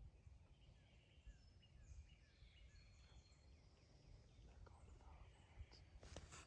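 Faint birdsong in the woods: a run of short falling chirps about twice a second, with thin high whistles, over a low rumble, and a few soft clicks near the end.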